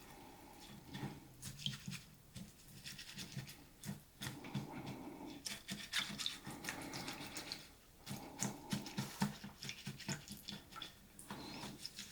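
A utensil stirring a thick, wet mixture of rice, canned cream of chicken soup, milk and water in a bowl: quick rhythmic strokes in three runs, with brief pauses about four and eight seconds in.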